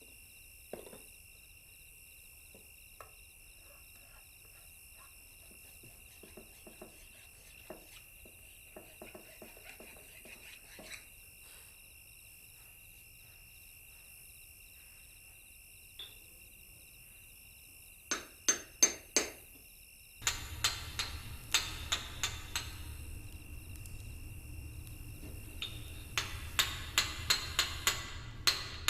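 Sharp hammer knocks: a few faint taps, three loud strikes in quick succession about two-thirds in, then a run of quick strikes near the end. A steady high tone runs underneath.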